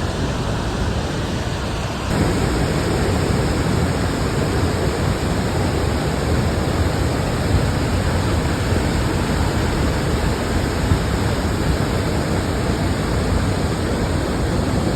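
Waterfall's steady rush of falling water, a little louder from about two seconds in.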